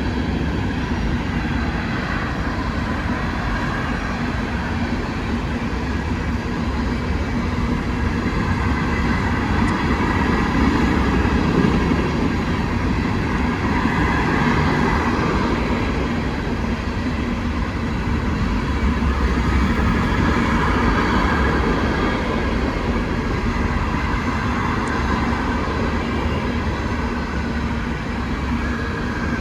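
Empty coal train's hopper cars rolling past on the rails, a steady rumble that swells and eases slightly.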